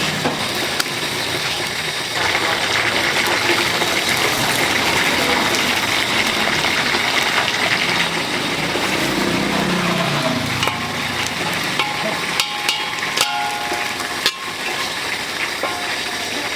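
Food frying in hot oil with a steady sizzle, with a few sharp utensil clinks about two-thirds of the way through and voices in the background.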